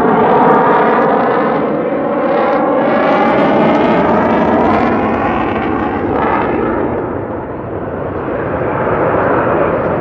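Airplane flying past overhead, loud and continuous, its pitch sliding as it goes by; it eases off around seven seconds in, then grows louder again.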